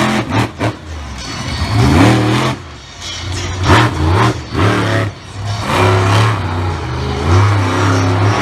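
Monster truck engine revving hard in repeated bursts, pitch climbing sharply a couple of times, with several short loud blasts in between.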